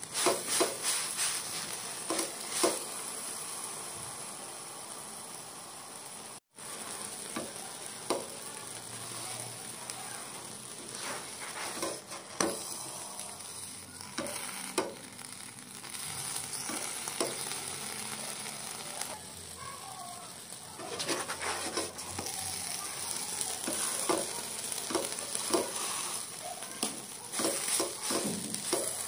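Stuffed flatbread frying in olive oil in a non-stick pan, a steady sizzle, with scattered light clicks and scrapes from a spatula and handling of the pan. The sound cuts out for a moment about six seconds in.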